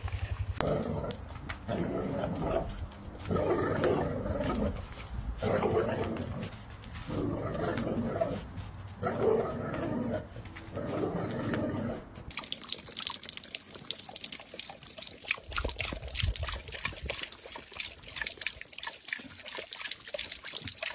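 A dog vocalizing in about six drawn-out calls with short gaps between them. About 12 seconds in, the sound changes abruptly to a crackling, splashing noise like water.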